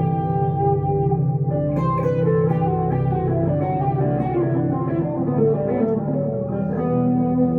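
1962 Gibson Les Paul Custom electric guitar played through a Two-Rock Emerald Pro tube amp, picking a melodic line of single notes and chords.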